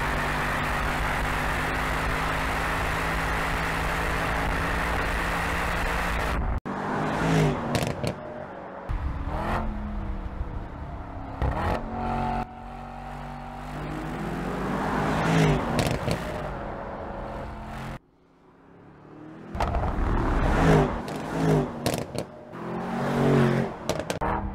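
Mercedes-AMG E63's 4.0-litre twin-turbo V8 on track. It holds a steady drone for the first several seconds, then cuts abruptly to a series of revs rising and falling through gear changes. About 18 seconds in it drops suddenly to near silence before the revs pick up again.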